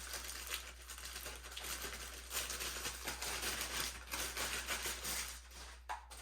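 Plastic packaging wrap crinkling and rustling as it is pulled off a vacuum part.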